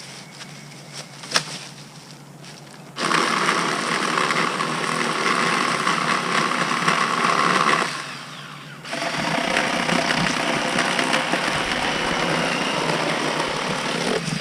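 Ryobi 40-volt battery chainsaw running in two long bursts of about five seconds each, with a brief pause between, after a single sharp click a little over a second in.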